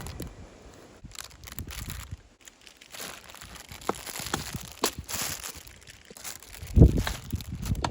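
Crinkling and rustling of handled packaging, with scattered clicks and one heavy thump near the end.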